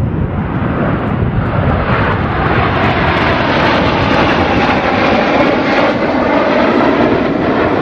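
An airplane in flight, its engine making a steady rushing noise that grows a little louder and brighter from about two seconds in.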